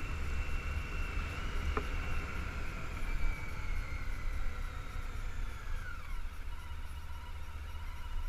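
Honda ST1300 V4 motorcycle riding, with heavy low wind rumble on the helmet-mounted camera and a high whine from the bike that slides down in pitch, dropping sharply about six seconds in.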